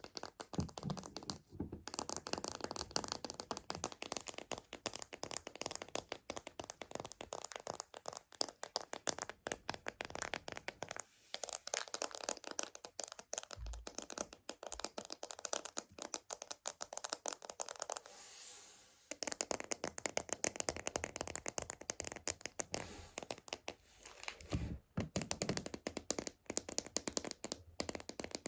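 Fingers tapping and scratching rapidly on the large plastic container of Meiji Choco Baby chocolates, a dense run of crisp clicks and crackles, with a couple of dull thumps.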